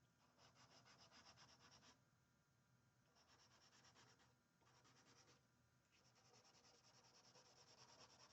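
Charcoal pencil scratching on paper in quick back-and-forth shading strokes, in four faint bursts.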